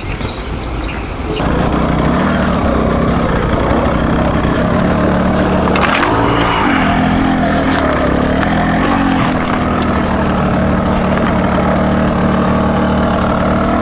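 Single-cylinder dual-sport motorcycle engine running under way off road, getting louder about a second and a half in, with the revs rising and falling a few times around the middle before settling steady.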